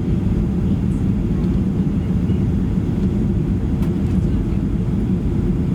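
Steady low cabin rumble of a Boeing 737-800, engine and airflow noise heard from inside the passenger cabin.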